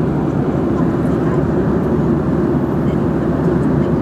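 Jet airliner cabin noise in flight: a steady, even rush and rumble of engines and airflow heard from inside the cabin.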